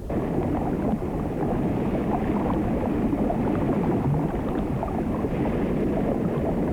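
Steady rushing sea surf and water noise with a crackling texture, starting abruptly.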